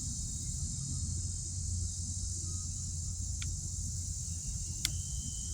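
Steady high-pitched insect chirring, with a low steady rumble beneath it and two short clicks late on.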